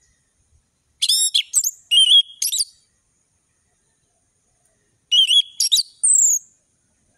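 Orange-headed thrush (anis merah) singing in full, open song. Two bursts of rapid, high whistled phrases come about a second in and about five seconds in, and the second ends in a falling whistle.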